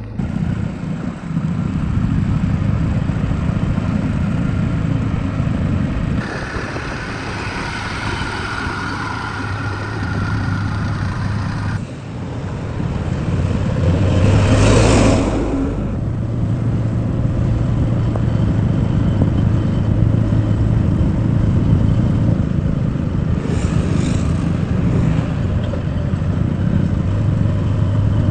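Vehicle engines running steadily with a low hum, broken by abrupt changes about a quarter and about two fifths of the way in, and a brief louder surge about halfway through.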